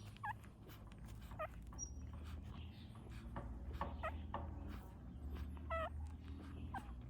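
Newborn puppies whimpering: several short, high-pitched squeaks spread across a few seconds.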